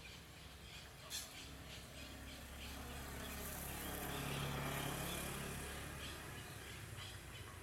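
A motor vehicle passes at a distance, its engine hum and road noise swelling to a peak in the middle and fading away. There is a brief sharp sound about a second in.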